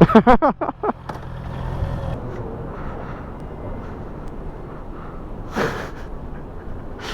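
Motorcycle engine idling, a low steady hum that drops away about two seconds in, leaving a steady background rumble. A short, loud rush of noise comes about five and a half seconds in.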